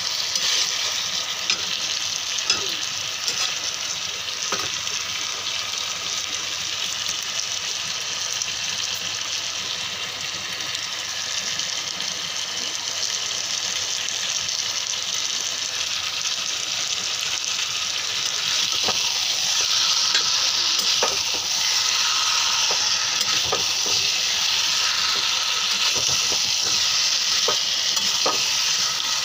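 Chicken and potato curry sizzling in a frying pan while a spatula stirs and scrapes it, with scattered clicks of the spatula against the pan. The sizzling gets louder in the second half.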